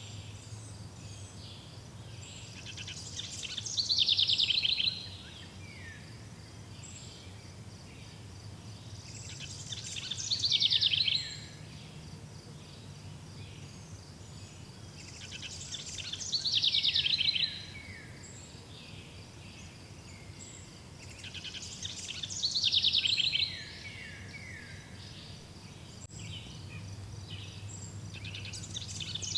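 A songbird singing the same two-second phrase about every six seconds, each phrase ending in a few falling notes. Beneath it runs a faint, steady, high insect-like trill.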